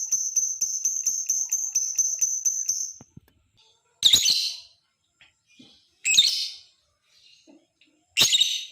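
Lovebird calling: a fast, even run of high, shrill chirps, about six a second, that stops about three seconds in. This is the chattering trill that keepers call 'ngekek'. It is followed by three loud, harsh screeches roughly two seconds apart.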